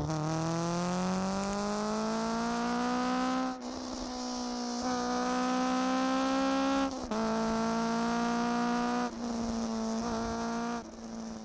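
Honda Civic EG6's four-cylinder VTEC engine (B16A) revving hard under acceleration, its note climbing into a high-rpm wail. The note then holds near the top of the rev range, broken by short dips about every two to three seconds, as at quick gear changes.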